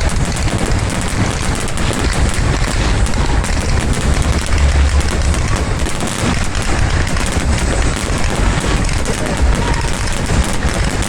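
Fireworks going off in a continuous barrage of rapid bangs and crackles over a deep rumble of booms.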